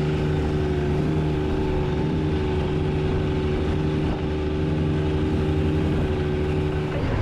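Long-tail boat engine running at a steady speed, an even drone with water and wind noise under it. The drone changes just before the end.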